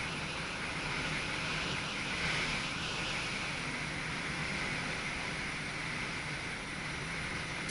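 Steady running noise inside the driver's cab of an NS SGM Sprinter electric multiple unit on the move, an even rushing sound over a low hum.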